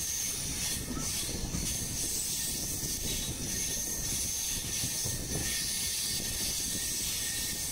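Moving passenger train heard from its open doorway: a steady rumble of wheels on the track and a steady hiss of rushing air.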